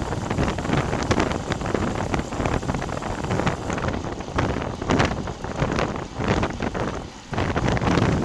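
Wind buffeting a bike-mounted action camera's microphone during a ride, rising and falling in gusts, with a brief lull about seven seconds in.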